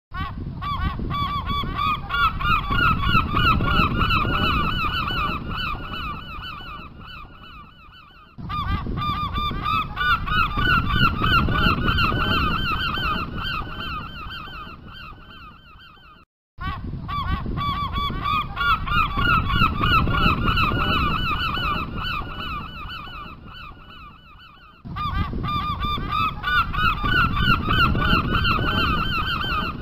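Gulls calling in rapid, overlapping series of harsh, pitched calls over low rumbling background noise. The same stretch of about eight seconds repeats four times, each fading out before the calls start again abruptly.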